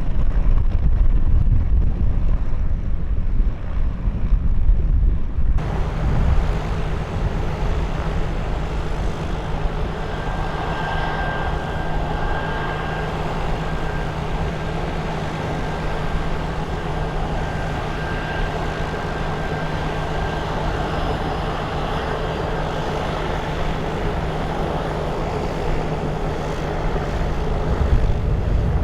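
Wind buffeting the microphone with a low rumble. About five seconds in it cuts abruptly to aircraft engines running steadily, with a low hum and, for a while, a thin high whistle over the noise.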